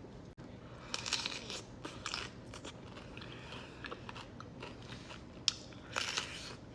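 A crisp tostada topped with shrimp aguachile being bitten and chewed. The crunches come in clusters, about a second in, around two seconds in, and again near the end, with lighter crackles of chewing in between.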